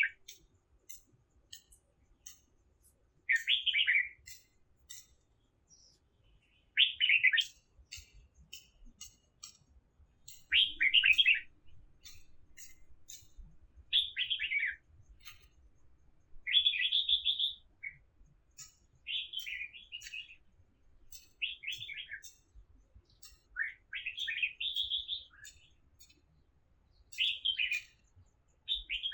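A songbird singing short, repeated phrases of quick notes about every three seconds, with faint scattered ticks between the phrases.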